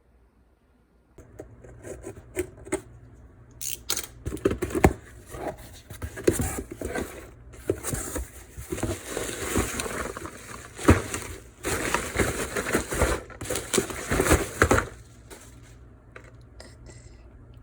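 Crinkling and rustling with many sharp clicks and knocks, as something is handled. It starts about a second in and dies down near the end.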